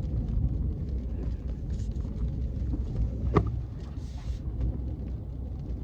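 Steady low rumble of a car running, heard from inside the cabin, with a single sharp click about three and a half seconds in.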